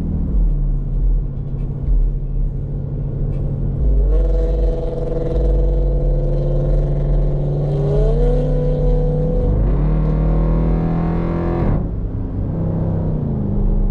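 Car engine running steadily, then from about four seconds in accelerating, its pitch climbing in steps, before dropping off suddenly near the end as the throttle is released.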